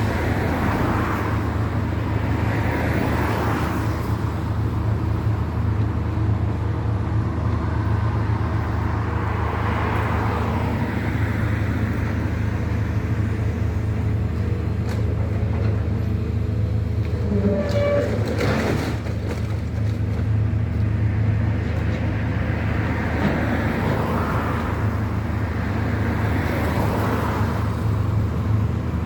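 A steady, loud engine hum runs throughout while road vehicles pass by every few seconds, with a brief clatter and squeal a little past halfway.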